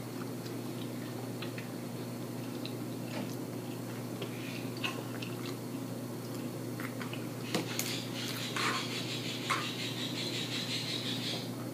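A person chewing naan bread and curry close to the microphone, with small wet mouth clicks and smacks.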